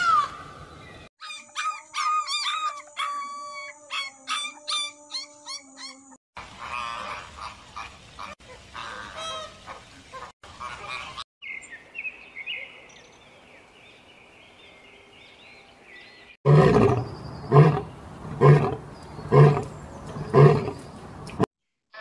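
A run of short animal-call clips cut together. First the end of a peacock's call, then several different bird songs, one of them a European robin's. Last and loudest comes a series of about six deep calls, just under a second apart.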